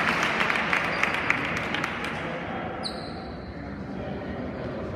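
Applause and crowd noise in a large hall dying away over the first couple of seconds. A steady high-pitched tone begins near the middle and holds.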